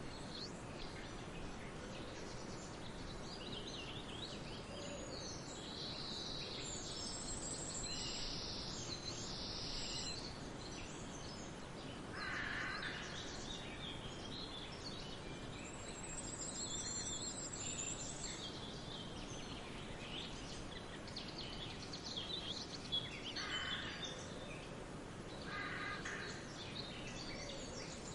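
Wild birds chirping and calling in a mixed chorus over a steady outdoor background hiss, with a couple of short, rapid high trills and a few lower, fuller calls scattered through.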